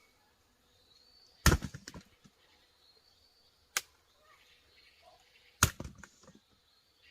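Three sharp knocks: a loud one about a second and a half in, trailed by a quick rattle of smaller knocks, a single lighter click in the middle, and another loud knock with a short rattle near the end.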